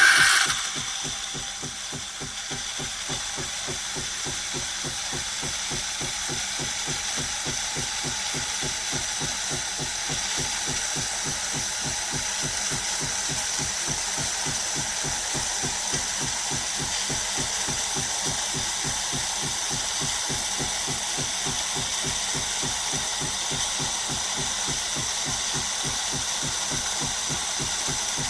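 Philips 4300 Series fully automatic espresso machine running, with a steady, fast pulsing throb like its pump working, after a louder burst as it starts up.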